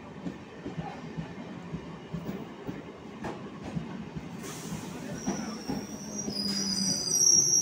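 Electric multiple unit (EMU) suburban train rolling slowly past a platform: a low steady rumble with scattered wheel clicks over the rail joints. From about two-thirds of the way through, a high-pitched wheel squeal at several pitches sets in and grows to the loudest sound near the end.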